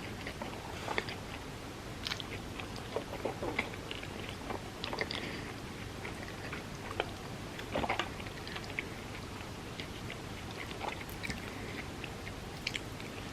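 Close-miked chewing of crispy fried food, with irregular crunches and wet mouth sounds.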